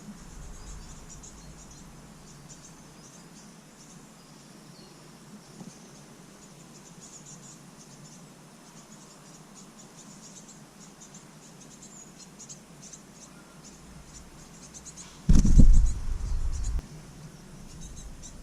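Faint, high-pitched chirping repeats throughout. About fifteen seconds in, a loud noisy burst lasts about a second and a half.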